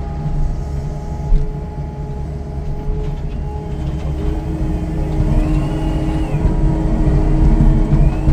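Heavy demolition machinery, likely an excavator, running steadily. A thin high whine rises and falls about five seconds in and again near the end.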